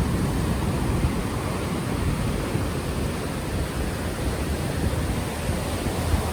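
Ocean surf washing steadily, mixed with the low rumble of wind buffeting an unshielded microphone.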